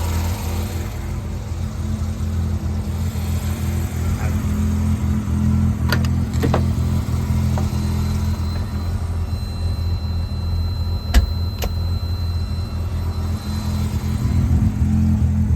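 1984 Mazda RX-7's twin-rotor rotary engine idling steadily after a cold start, still warming up. A few sharp clicks sound around the middle, the loudest about eleven seconds in.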